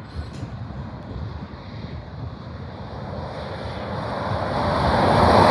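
An approaching 18-wheeler's engine and tyre roar, growing steadily louder over the last two seconds or so. Wind buffets the microphone underneath.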